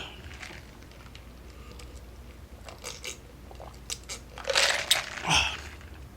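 Close-up mouth sounds of someone drinking a large soft drink: faint clicks and swallows, then louder breathy sounds about four and a half seconds in and again just after five seconds.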